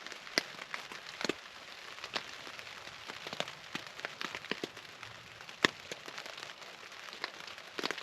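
Steady rain, with separate raindrops landing as sharp, irregular taps over a soft hiss; it has been raining non-stop for hours.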